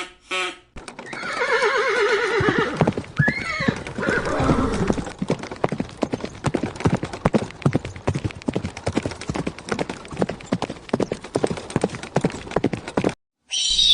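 A horse neighing: a whinny that quavers and falls in pitch, followed by a long run of hoofbeats clip-clopping that stops just before the end.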